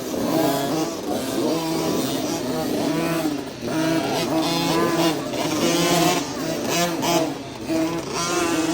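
Small dirt bike engines on a motocross track, revving up and down repeatedly as the riders work the throttle.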